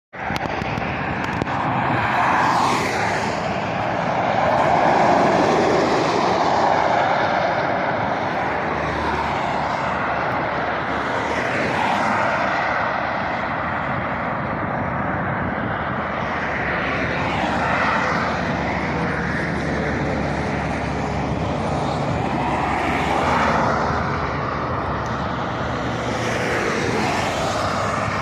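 Traffic on a main road: a steady rush of tyres and engines, with a vehicle passing close every few seconds and swelling then fading as it goes by.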